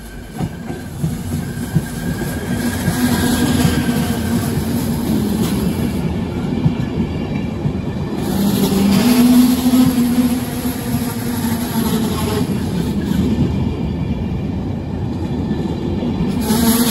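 Enterprise passenger train, hauled by a Class 201 diesel-electric locomotive, arriving into the platform: wheel-and-rail rumble with a steady engine hum. It grows louder over the first few seconds as the coaches draw alongside, and stays loud as they roll past close by.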